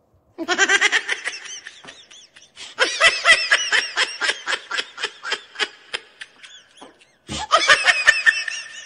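High-pitched laughter: quick runs of giggles in three bouts, the first starting just after the beginning, the second about three seconds in, the last near the end.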